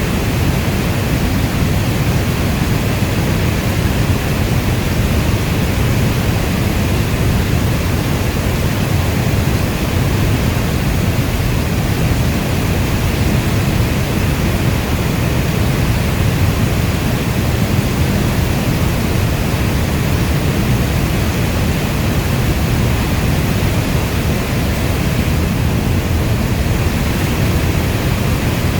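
Steady heavy rain: a dense, even rush with most of its weight low down, unchanging throughout, with no separate drops or thunder standing out.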